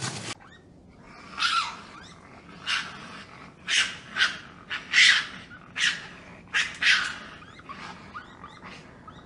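Meerkat giving a series of short, high chirping calls, about ten of them at irregular intervals, with a few fainter ones near the end.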